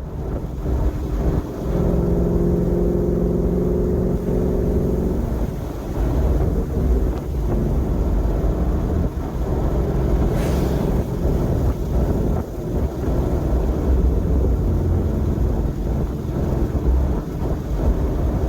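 Open-top car driving at speed: heavy wind and road rumble over the engine running, with a steadier engine hum between about two and five seconds in.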